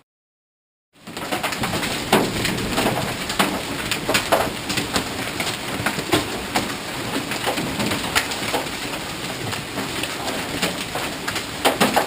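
About a second of dead silence, then a dense, steady clatter of hailstones pelting the ground and nearby surfaces: many sharp hits a second over a constant rush.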